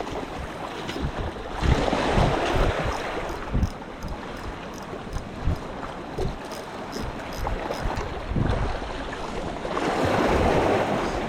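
Sea waves washing onto the shore, with two louder surges, about two seconds in and near the end, over steady surf. Wind buffets the microphone with low thumps.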